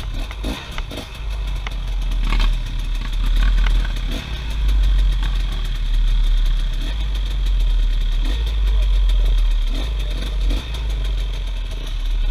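Off-road vehicle engines running, with a heavy low rumble and scattered clicks and clatter.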